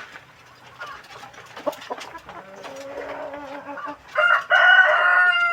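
Village chickens clucking softly, then a rooster crows loudly about four seconds in, one crow lasting about a second and a half.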